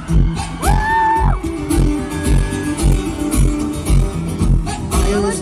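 Live concert music through a PA, heard from the crowd: acoustic guitar with a steady beat about twice a second, and a brief held high note about a second in.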